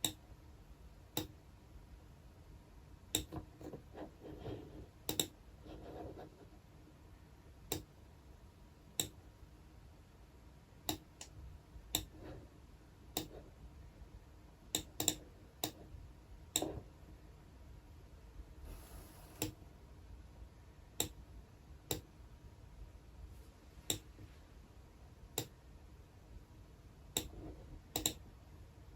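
Single sharp clicks from computer work at a desk, scattered irregularly about a second apart rather than in fast runs of typing. There is a soft rustle around four to six seconds in and another near the middle.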